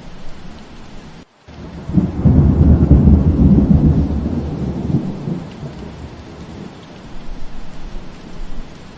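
Steady rain with a loud low roll of thunder that begins about two seconds in and fades away over several seconds. Just before the thunder the sound cuts out for a split second.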